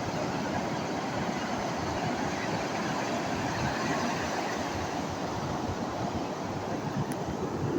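Sea surf washing onto a beach, a steady rushing noise.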